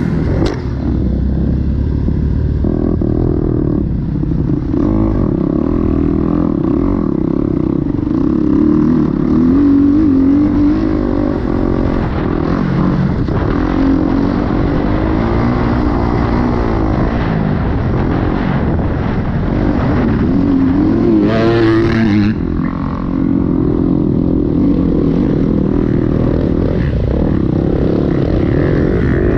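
Dirt bike engine being ridden, its pitch rising and falling as the throttle opens and closes. About 21 seconds in there is a brief harsher burst.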